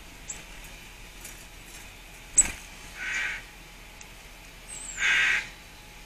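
A bird outside calling twice with short, noisy calls about two seconds apart. A sharp click, louder than the calls, comes a little before the first one.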